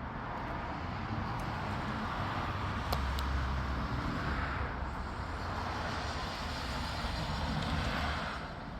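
A road vehicle going by: a steady rush of tyre and engine noise with a low rumble that swells and then drops away near the end.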